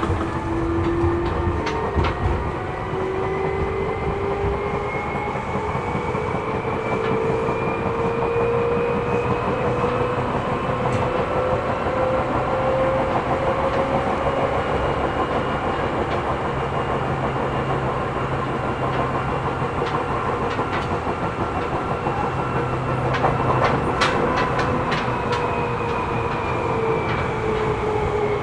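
Running sound inside a Seibu New 2000 series electric train car. The motor whine rises in pitch over the first half, holds, then falls near the end. Clicks from the wheels over rail joints come through the steady rumble.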